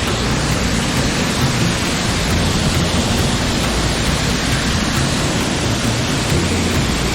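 Mountain stream water rushing: a steady, loud wash of noise.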